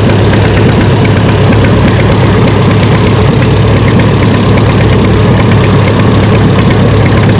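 Antique tractor engine idling steadily and loudly close by, the tractor hooked to a pulling sled and waiting for the start signal.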